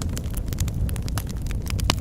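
Wood fire crackling in a fireplace: many quick irregular pops over a steady low rumble of the flames, with one sharper pop near the end.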